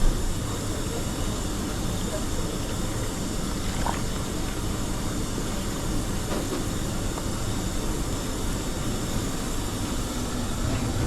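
Steady low hum and hiss of commercial kitchen machinery, with a few faint clicks.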